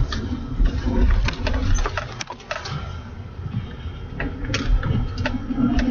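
Low rumble of a pickup truck driving on snowy roads, heard from inside the cab, with irregular sharp clicks and knocks throughout.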